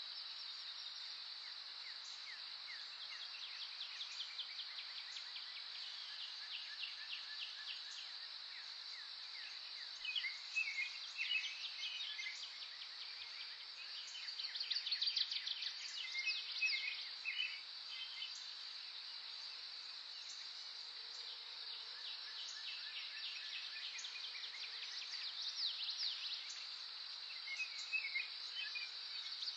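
Steady, high-pitched insect drone, like crickets, with wild songbirds chirping and trilling over it in several short bouts.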